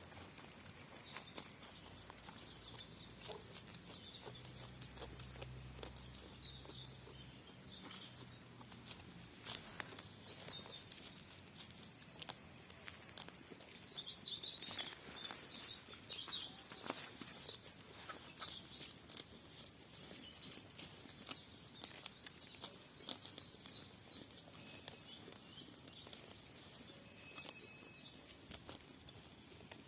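Small birds chirping and twittering in short high calls, with scattered sharp clicks. A faint low drone comes in for a few seconds, about four to eight seconds in.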